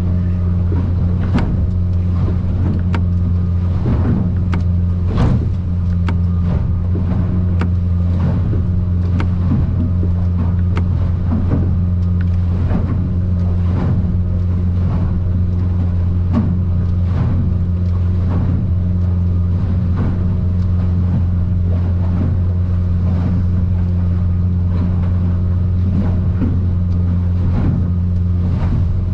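Boat's outboard engine running at low cruising speed, a steady low drone heard from inside the cabin of an aluminium boat in rough water. Irregular knocks and slaps come every second or so as the hull rides the swells.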